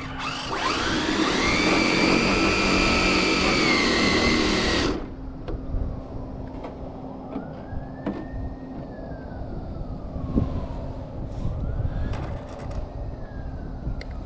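Electric motors of RC drag cars whining at full throttle on a drag pass, rising in pitch for about four seconds and then cutting off abruptly. Afterwards, fainter whines rise and fall in pitch twice.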